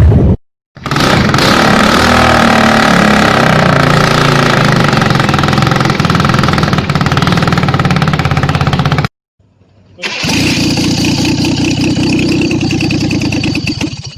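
Two clips of petrol engines running on bench frames outside their vehicles, joined by abrupt cuts: the first engine runs with its speed rising and falling, then after a second of silence a second engine with a faster, buzzier firing beat runs until a cut at the end.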